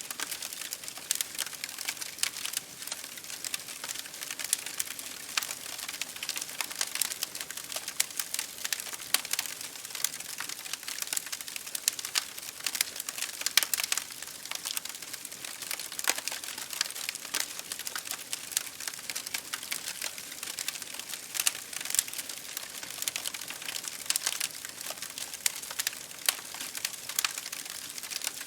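Wood fire crackling in a fireplace, a dense run of irregular sharp snaps and pops, over a steady hiss of rain against a window pane.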